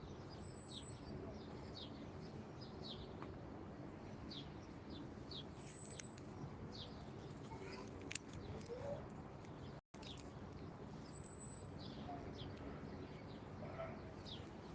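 Small birds chirping outdoors: many short downward-sweeping chirps, with a thin high note about every five seconds, over a steady low background rumble.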